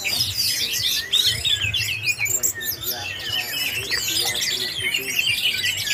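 Many caged orange-headed thrushes (anis merah) singing at once: a dense, overlapping chorus of quick, rising and falling warbled phrases.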